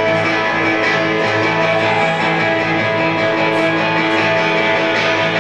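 Guitar music: strummed chords ringing steadily through an instrumental passage of a song, with no singing.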